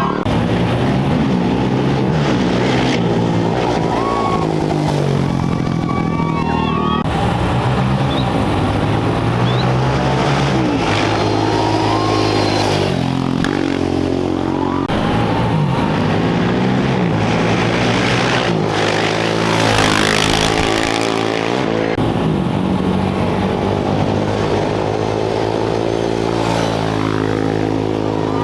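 Off-road race motorcycle engines revving and accelerating. Their pitch rises and falls again and again as bikes set off and pass.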